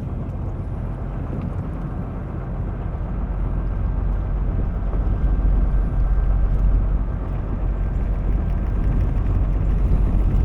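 Fishing boat's engine running steadily, with wind rushing on the microphone; it gets a little louder about halfway through.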